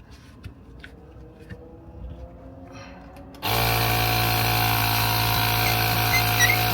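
A few light clicks and taps, then about three and a half seconds in an electric air compressor's motor switches on suddenly and runs steadily with a low hum.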